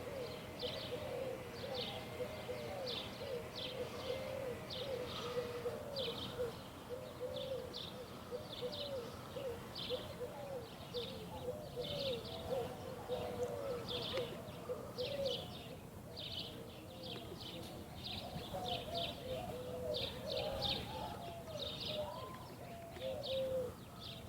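Birds calling throughout: a steady run of short, lower rising-and-falling calls, two or three a second, over many quick high chirps.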